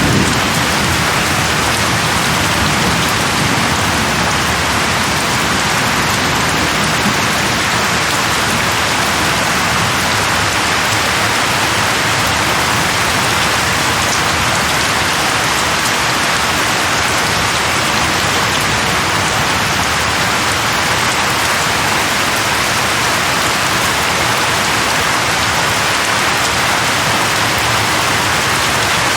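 Steady rain falling on a surface, an even, dense hiss. The tail of a low thunder rumble fades out in the first few seconds.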